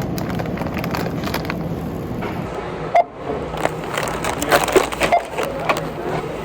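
Supermarket background noise: a steady hum and murmur with scattered clicks and rustling of items being handled, briefly dropping out about three seconds in.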